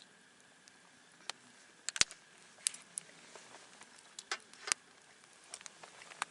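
Wood campfire crackling: irregular sharp pops and snaps over a faint hiss, the loudest about two seconds in.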